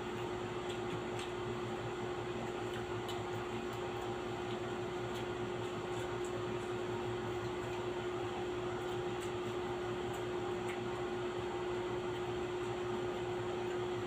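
Steady machine hum with one constant tone and an even hiss underneath, like a running room fan or air conditioner, with a few faint small clicks scattered through it.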